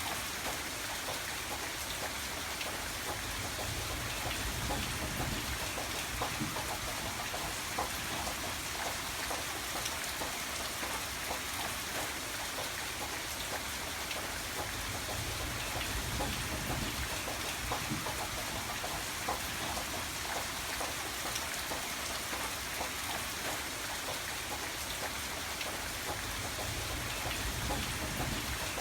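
Steady rain falling, a continuous hiss dotted with many separate drop ticks.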